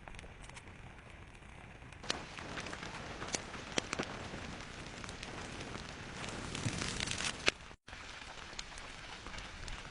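Flowing lava crackling and clinking as its cooling crust breaks up, a steady hiss with scattered sharp cracks that grow busier after about two seconds. The sound cuts out completely for an instant near the end.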